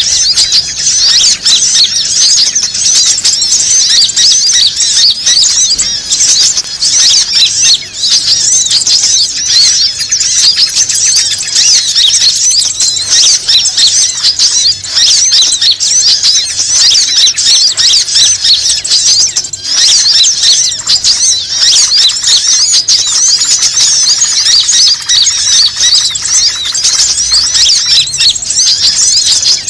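A dense, continuous chorus of many small birds chirping and squeaking at once, high-pitched. It is a bird-lure (pikat) recording made to call in wild birds.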